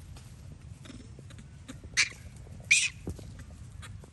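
A monkey giving two short, loud, shrill cries, about two seconds in and again just under a second later, over a low steady background rumble.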